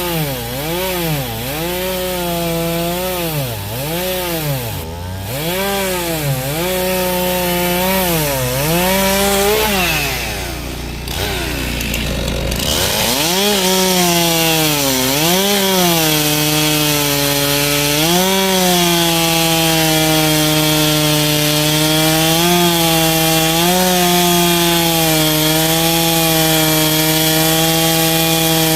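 Chainsaw cutting a big log. For the first half its engine pitch dips and recovers about once a second; from about halfway it settles to a steadier high pitch with only small dips as it keeps cutting.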